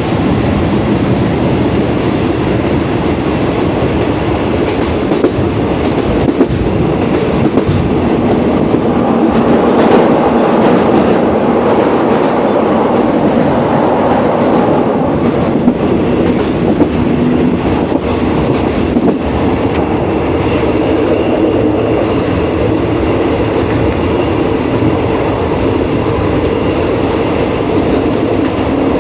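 Train running on the rails: a steady loud rumble with scattered sharp clicks.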